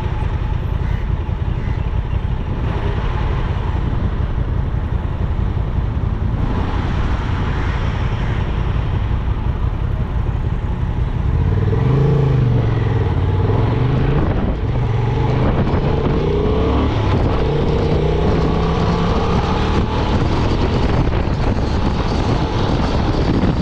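Honda Transalp 750's parallel-twin engine heard from the bike at highway speed over steady wind and road rush. From about halfway through, the engine note rises and falls several times as the throttle is worked.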